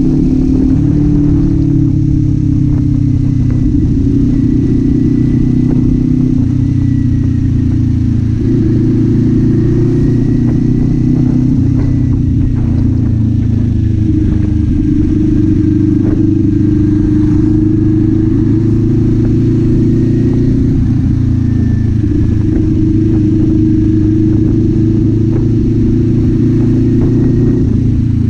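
Kawasaki Z400 parallel-twin engine and exhaust running steadily while riding, its pitch holding near one speed with a few small shifts up and down as the throttle changes.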